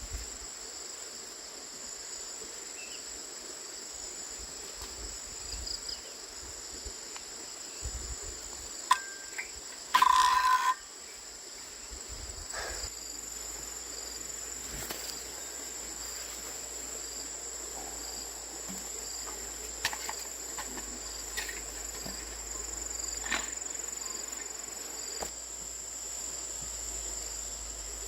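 Insects trilling steadily and high-pitched in the background, with scattered clicks and knocks. The loudest is a brief ringing knock about ten seconds in.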